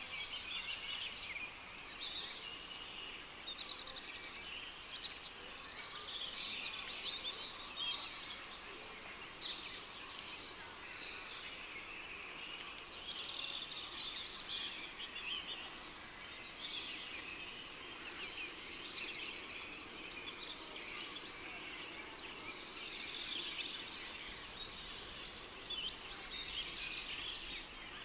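Rainforest ambience: a cricket chirping in a steady high pulse, about four chirps a second, with a short pause around the middle. Underneath is a denser chorus of other insect and bird chirps and trills.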